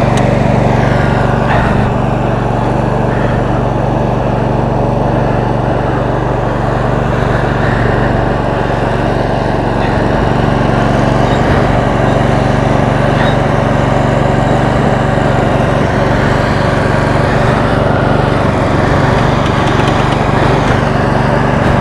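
Roper lawn tractor's 22 hp Briggs & Stratton V-twin engine running steadily at an even speed, with no clear revving up or down.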